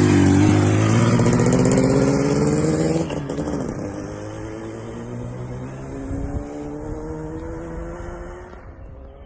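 Freshly rebuilt Yamaha RD200 two-stroke twin pulling away under acceleration, its pitch rising. About three seconds in, the sound drops and the pitch falls back. It then climbs again, quieter, and fades away near the end.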